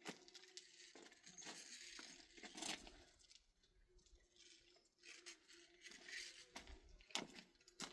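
Near silence with a few faint, scattered clicks and rustles.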